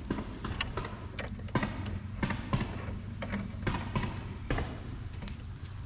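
Ford L8000 turbo diesel truck engine idling steadily, with scattered sharp metallic clicks and knocks over it.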